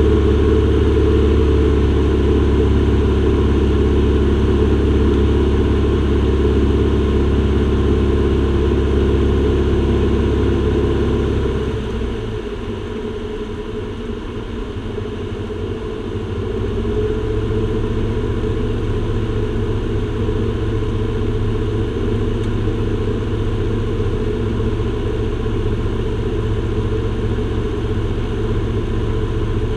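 Aircraft cabin noise during the approach: the engines run with a loud, steady low drone and hum. About twelve seconds in the drone drops and changes tone, then settles at a slightly lower level.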